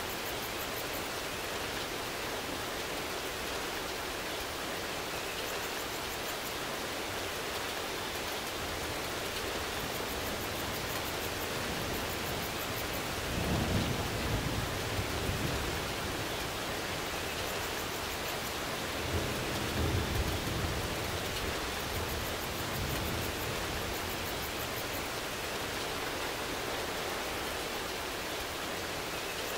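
Steady rain, an even hiss, with two low rumbles of thunder, one about 13 seconds in and another about 19 seconds in.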